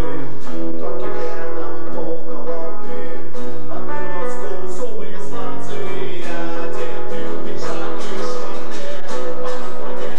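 Music: an instrumental passage with strummed acoustic guitar over held lower notes.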